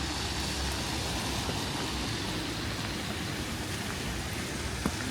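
Steady hiss of rain falling on a city street, with one short sharp click near the end.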